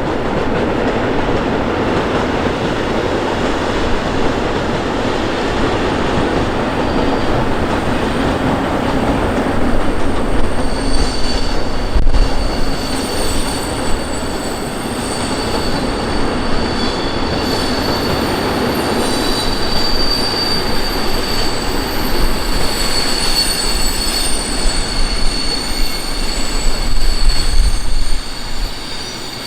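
A train running past on the track, a steady heavy rumble of wheels on rail. About ten seconds in, a high steady wheel squeal joins it and persists, wavering slightly in pitch.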